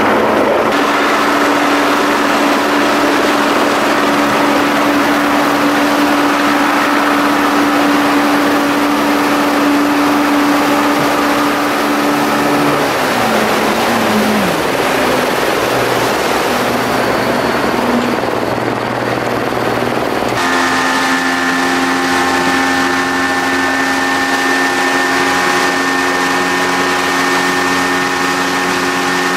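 Vehicle engine running steadily, heard as loud cabin noise with a steady hum. About halfway through the hum slides down in pitch, and about two-thirds through the sound changes abruptly to a different, steadier set of hums.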